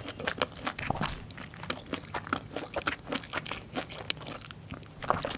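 Close-miked crunching bites and chewing of a breaded squid-ink cheese corn dog: dense, irregular crisp crackles from the fried crumb coating.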